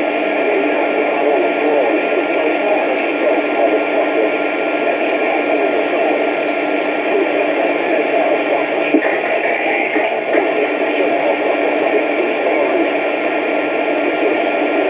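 Two-way radio receiver putting out steady static, with garbled, unintelligible voices mixed into the hiss. The sound is thin and boxy, cut off above and below like a radio speaker.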